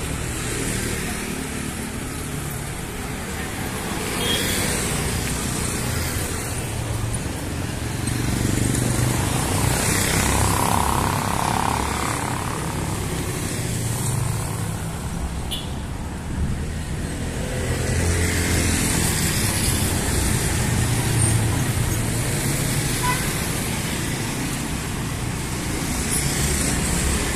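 City street traffic: cars and other motor vehicles running past in a steady stream of engine and tyre noise, swelling and easing as they pass.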